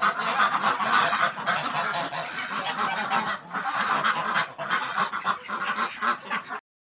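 A flock of waterfowl calling, many calls overlapping, cutting off suddenly near the end.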